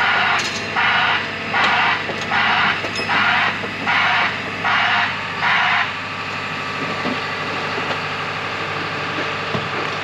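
Heavy equipment's hissing-type backup alarm pulsing about once every three-quarters of a second, over a steadily running diesel engine; the alarm stops about six seconds in while the engine keeps running.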